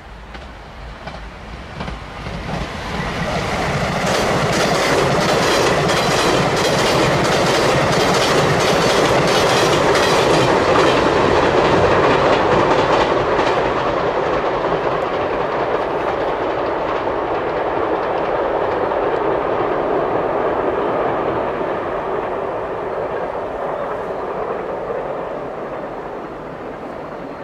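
A JR West 381 series nine-car electric express train crossing a railway bridge. The rumble and regular clacking of its wheels over the rail joints build from about two seconds in, are loudest for some ten seconds, then slowly fade away.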